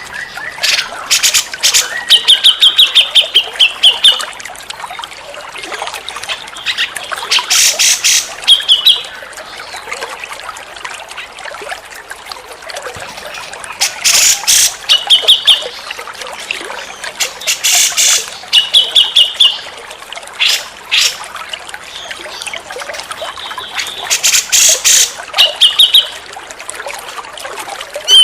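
Grey-cheeked bulbul (cucak jenggot) singing: repeated bouts of rapid chattering clicks, each ending in a short, fast trilled phrase, every few seconds. A steady trickle of running water lies underneath.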